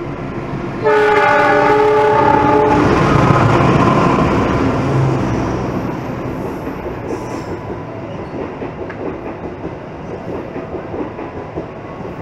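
A GE CM20EMP (CC206) diesel-electric locomotive sounds its multi-tone horn about a second in, holding it for about two seconds. Its engine then rumbles past, and the passenger carriages roll by with their wheels clattering on the rails.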